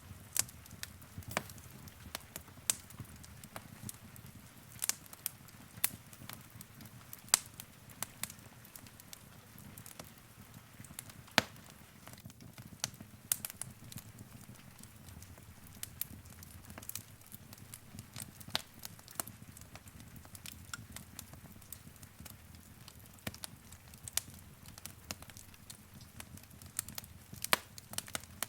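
Wood fire crackling in a fireplace: irregular sharp pops and snaps, several a second with a few louder ones, over a soft low rumble of the flames.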